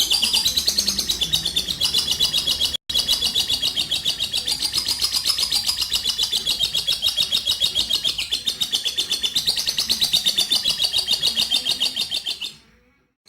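Lovebird singing a long 'ngekek', a rapid, unbroken high chattering trill that is held for many seconds. It breaks off for an instant about three seconds in and fades out near the end.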